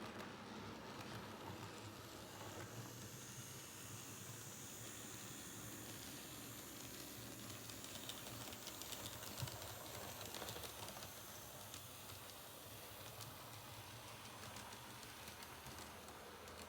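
Model train running on a layout: a faint steady motor hum with light hiss, and a run of faint clicks from the wheels over the track about halfway through.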